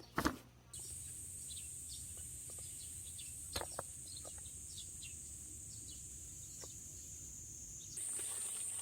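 Steady high-pitched insect chorus, with scattered short bird chirps over it. The insect buzz starts abruptly under a second in and gets louder near the end.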